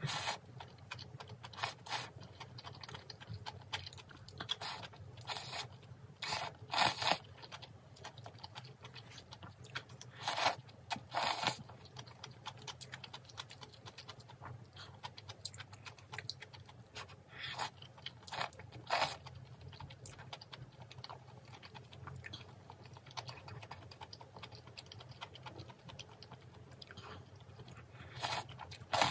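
A person chewing crunchy food close to the microphone, with irregular sharp crunching bites.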